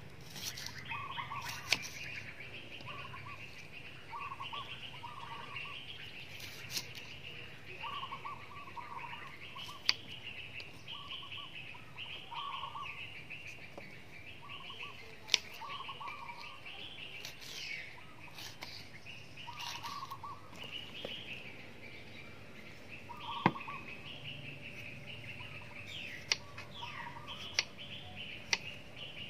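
Birds chirping repeatedly throughout, with a handful of sharp knife taps on a wooden chopping board as vegetables are sliced.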